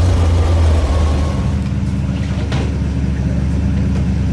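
Car engine running at a steady low idle, close by.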